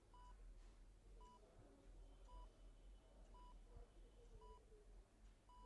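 Hospital patient heart monitor beeping faintly and steadily, one short high beep about once a second.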